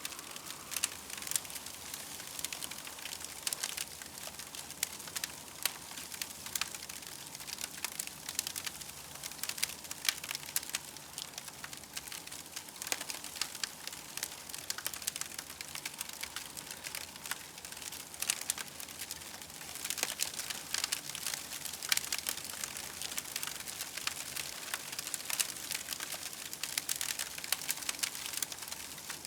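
Campfire crackling steadily, with dense, irregular small pops and snaps over a soft hiss, busier around two-thirds of the way through.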